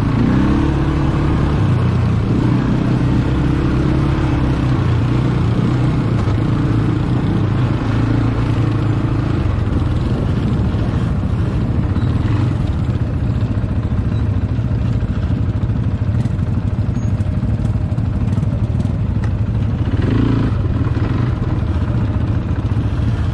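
ATV engine running while being ridden, its pitch shifting up and down with the throttle over the first few seconds, then holding steady.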